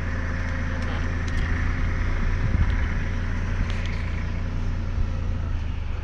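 Tractor engine running steadily with a low, even hum, with a few faint clicks over it.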